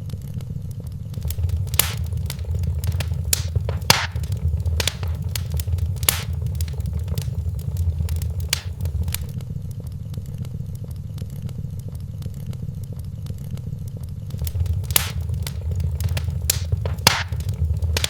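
Wood fire in a fireplace burning with a steady low rumble and irregular sharp crackles and pops, a few louder pops standing out.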